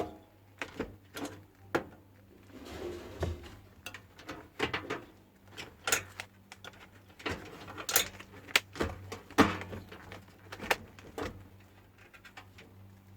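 Irregular clicks, taps and scrapes of multimeter test probes and hands working against a microwave oven's high-voltage transformer while checking its primary winding, with a faint steady low hum underneath.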